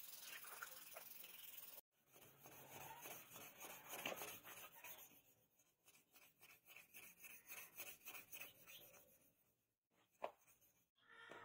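Quiet scraping and rubbing strokes of hand abrasive work on the steel knife blade, repeating at about three a second in the middle stretch, with a short sharp click near the end.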